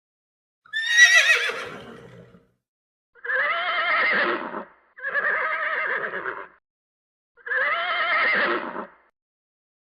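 Horse whinnying four times: a high, trembling whinny that falls in pitch about a second in, then three level calls of about a second and a half each with short pauses between them.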